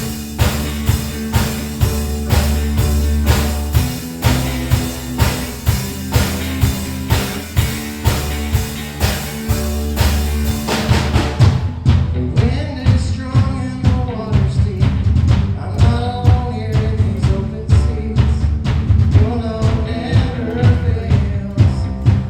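Worship band playing a song with a drum kit keeping a steady beat; singing voices come in about halfway through.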